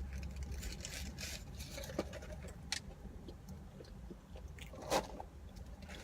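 Close-up chewing and mouth sounds of someone eating a cheeseburger and fries, with a few small crackles and clicks, the clearest about five seconds in, over a steady low hum.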